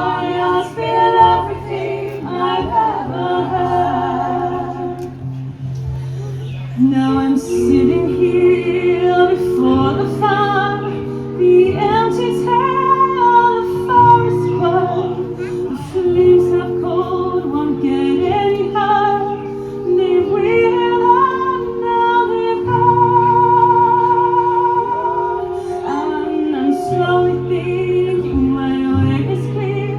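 A folk vocal group singing a slow ballad in harmony, a female voice leading over long-held low notes that change every couple of seconds.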